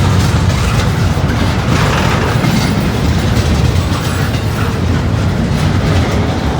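Freight train cars rolling past at close range, a steady rumble with the wheels clicking over the rail joints.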